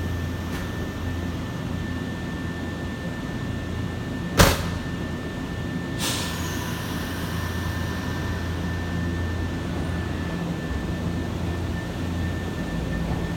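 Nankai electric train standing at a platform: a steady low hum of its equipment under a constant high whine, with a single sharp knock about four seconds in and a short hiss of air about two seconds later.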